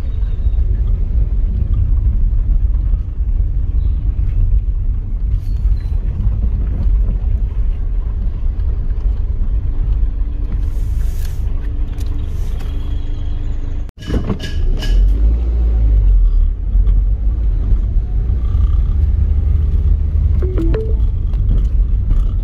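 Steady low rumble of a vehicle on the move, engine and road noise, with a sudden brief cut about fourteen seconds in.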